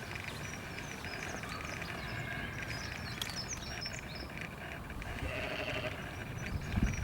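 Small birds chirping, with quick high chirps throughout, and a held animal call about five seconds in, over a steady outdoor background.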